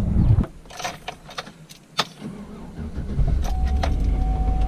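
Keys and door clicks as someone gets into an SUV, then about three seconds in the engine starts and runs at a steady idle, with a thin steady high tone sounding over it.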